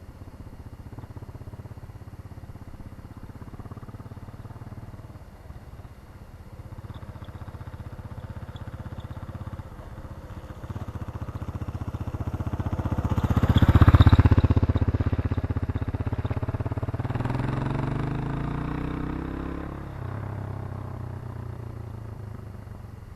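Irbis Garpia 250 single-cylinder motorcycle running, heard from the side. It grows louder to a peak about fourteen seconds in as it comes past, then the revs climb for a few seconds before dropping back about twenty seconds in.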